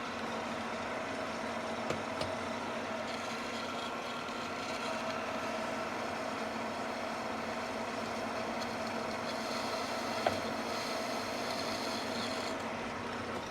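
Manual engine lathe running under a light finishing cut on the outside diameter of a steel plate: a steady machine hum with whining gear tones and a few faint ticks. The higher tones drop away shortly before the end.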